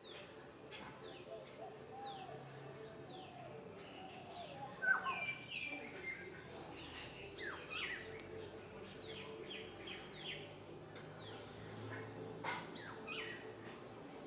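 Birds chirping, with many short calls that slide downward in pitch, several overlapping and busiest in the middle.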